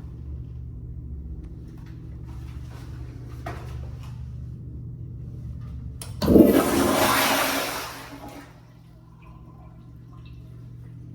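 Public-restroom toilet flushing once: a sudden loud rush of water about six seconds in that lasts about two seconds and then dies away, over a steady low hum.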